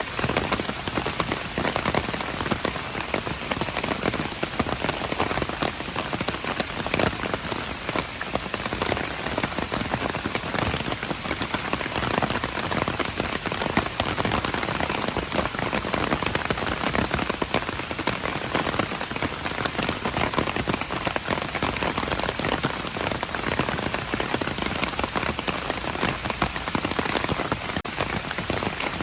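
Steady rain falling on a hard surface, a dense even patter of drops with no let-up.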